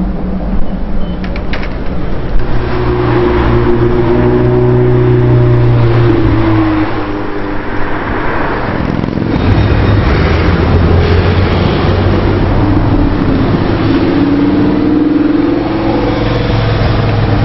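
Car engine running loudly, its pitch holding steady for a few seconds and then rising and falling as it is revved, with a few sharp clicks near the start.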